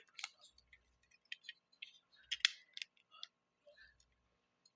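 Small plastic Lego pieces clicking and rattling as they are handled, a string of light ticks with one sharper click about two and a half seconds in.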